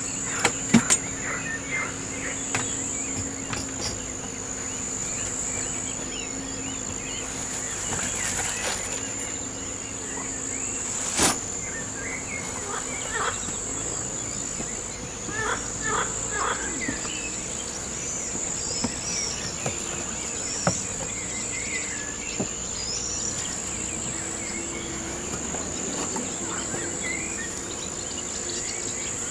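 Outdoor insects keep up a steady high-pitched trill, with scattered short bird chirps. A few sharp clicks stand out, the loudest about eleven seconds in.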